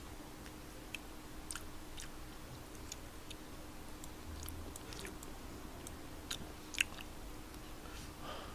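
Faint close-up chewing and mouth sounds of someone eating tteokbokki, with scattered small clicks; one sharper click comes about two-thirds of the way through.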